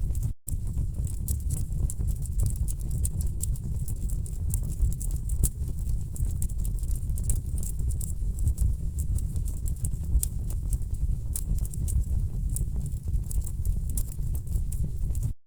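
Wood fire burning in a fireplace: a steady low rumble of the flames with dense, irregular crackles and pops from the burning logs. The sound cuts out for an instant about half a second in and again just at the end.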